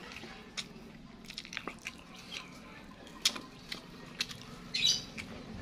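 Close-up mukbang eating sounds: a man chewing a mouthful of rice bowl, with scattered wet mouth clicks and smacks as he scoops rice with his fingers. A short, louder smack comes near the end.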